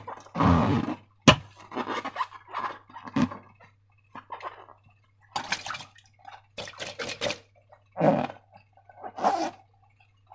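Slime being squeezed and worked by hand: irregular wet, sticky squelches with short pauses between, and one sharp click about a second in.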